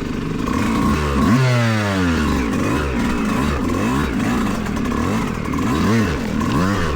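Yamaha YZ125X two-stroke 125 cc dirt bike engine revving up and down while riding. There is a hard rev about a second in that falls away over the next second and a half, then quick rises and drops in engine pitch near the end.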